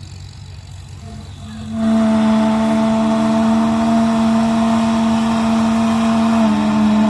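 1954 Farmall Super M's four-cylinder engine opened up to full throttle for its pull, coming in loud about two seconds in and holding a steady high pitch. The pitch dips slightly near the end as the engine takes the load.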